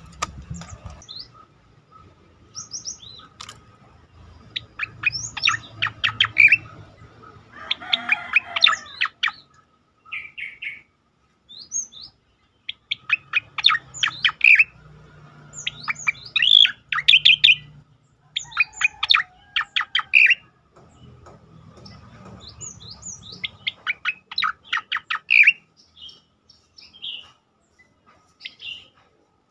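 Striated grassbird (cicakoreng) singing its rapid-fire song: bursts of fast rattling notes, each a second or two long, come every few seconds, with short single chirps in between. A faint steady high tone runs underneath.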